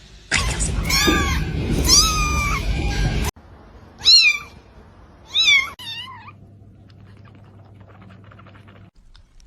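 Kittens meowing: a run of loud meows over a noisy backdrop that cuts off abruptly about three seconds in, then three shorter meows, each rising and falling in pitch.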